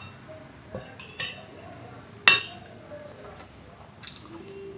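Cutlery clinking against a plate while eating: one sharp ringing clink about two seconds in, another about a second in, and a few lighter taps.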